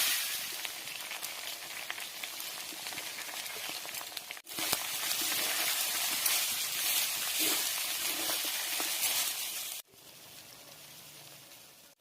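Chicken and curry leaves sizzling in hot oil, a steady hiss that cuts off suddenly twice. It is louder in the middle stretch and faint near the end.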